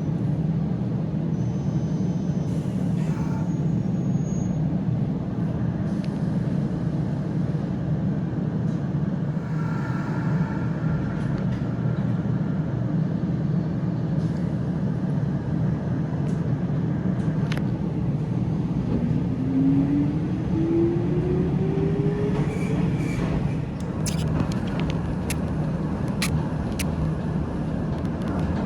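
Toyama Chiho Railway electric train running, heard from inside the car: a steady low rumble, with a motor whine rising in pitch over a few seconds about two-thirds of the way in, and a few sharp clicks near the end.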